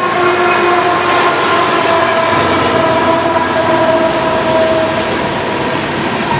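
Locomotive chime whistle blowing: two short blasts followed by one long chord of several notes that fades out about five seconds in.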